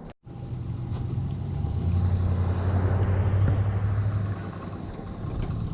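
An engine running steadily with a low hum and wind noise; the hum grows stronger about two seconds in and eases near the end.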